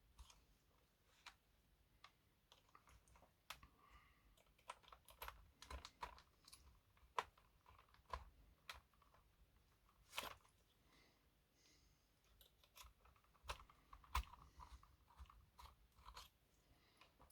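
Scattered small clicks, taps and scrapes of hands and a small screwdriver working on the plastic body and chassis of a model locomotive as its body screws are done up. The sharpest taps come about seven seconds in and again about fourteen seconds in.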